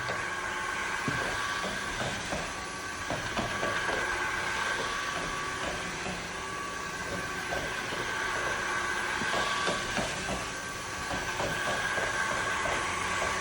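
Osotek H200 Lite wet-dry vacuum mop running steadily, a motor drone with a constant high whine and many small scattered clicks as it sucks up chunks and liquid.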